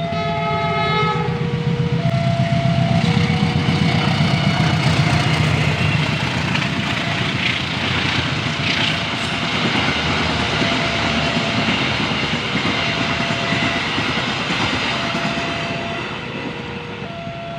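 A train passing at speed: a short horn blast at the start, then the rumble and rolling wheel noise of the cars going by, easing off toward the end. Under it a warning signal alternates between two tones about once a second, as a level-crossing alarm does.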